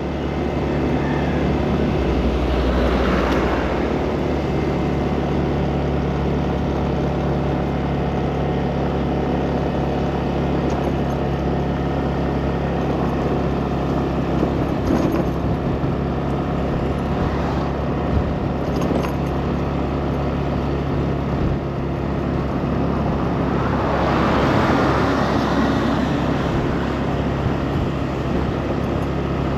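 Riding on a motor scooter: its engine runs steadily under continuous road and wind noise, with traffic around. Two vehicles swell louder as they pass, one a couple of seconds in and one about 25 seconds in.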